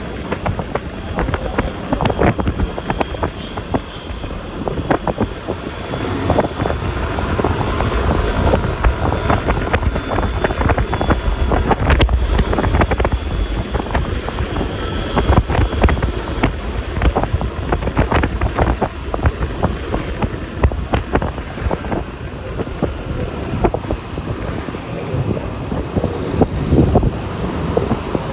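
Wind buffeting the microphone of a scooter riding along a highway, a steady rush with constant crackling gusts and a low rumble of road and traffic noise beneath.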